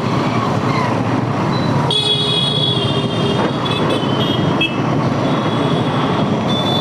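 Road traffic noise in a stop-and-go jam: engines running and general traffic din, with a high-pitched shrill tone from a nearby vehicle starting about two seconds in, lasting a couple of seconds, and coming back near the end.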